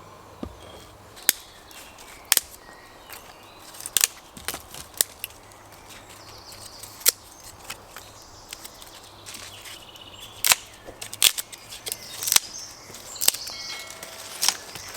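Wood campfire crackling, with sharp, irregular pops and cracks every second or so.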